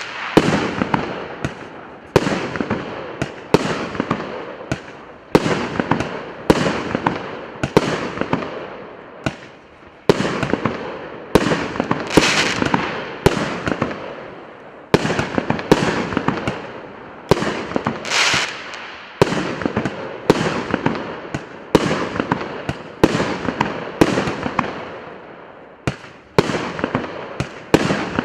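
RM650 'Flagman' fireworks cake, a 99-shot battery of 1.1-inch tubes, firing shot after shot about once a second. Each shot is a sharp bang followed by a fading rush of noise from the burst overhead.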